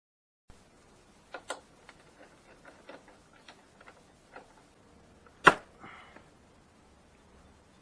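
Scattered light clicks and taps, with one much louder sharp click about five and a half seconds in.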